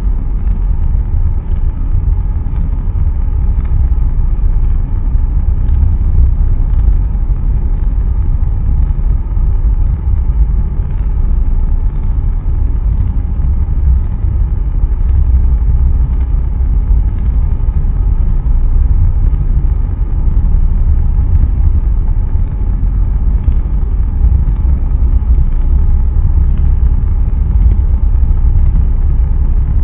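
Blue Origin BE-3U hydrogen–oxygen rocket engine firing continuously in a hotfire test: a loud, steady rumble, deepest in the bass, with no break or change.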